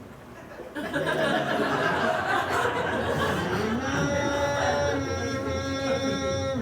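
Subway train sound effect: the car starting to move off with a rumbling noise, then from about halfway an electric-motor whine that rises in pitch in steps as the train accelerates.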